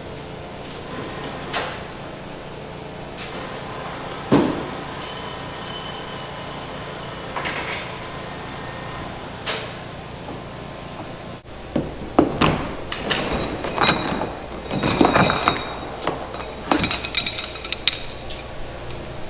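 Scattered metal knocks and clanks over a steady low hum, growing busier with a run of rattling clanks in the second half.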